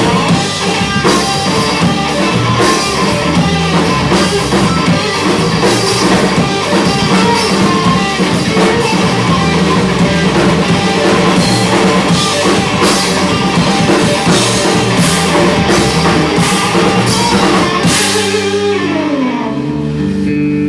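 Live rock band playing, guitar over a full drum kit. About three seconds before the end the drums stop, leaving held guitar notes, one sliding down in pitch.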